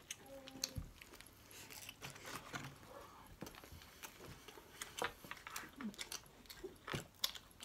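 Quiet eating: chicken nuggets being chewed, with scattered soft clicks and taps throughout.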